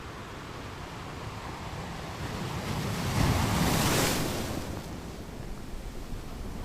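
Ocean waves on the shore: a wave builds to a loud rush about three seconds in, then washes back down into the steady surf.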